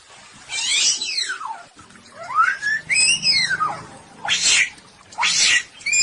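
Samyong songbird calling in long whistled slurs that sweep down, then rise and fall, followed by two harsh rasping notes near the end.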